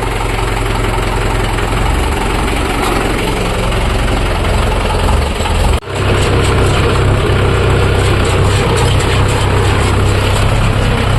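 Tractor diesel engine running steadily with a loud low rumble, broken by a sudden brief dip a little under six seconds in, after which it carries on slightly deeper.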